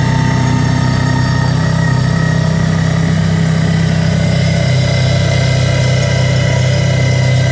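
Kawasaki Teryx side-by-side's V-twin engine running at a steady speed while driving, a loud, even drone with only slight changes in pitch.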